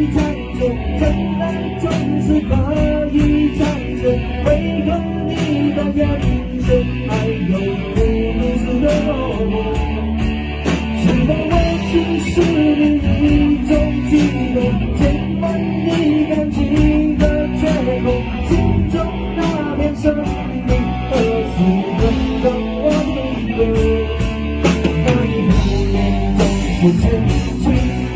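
Rock band playing a slow rock ballad: a singer over electric guitars, bass and a drum kit keeping a steady beat on the hi-hat.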